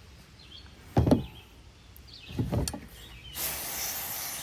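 Two short handling knocks, then about three seconds in a steady, high hiss of spray being blown into a plugged carburetor fuel passage to clear it.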